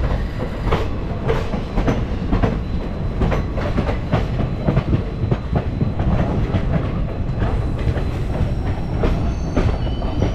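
Indian Railways passenger train running through a station yard, its wheels clattering over rail joints and points in quick, irregular clicks over a steady rumble.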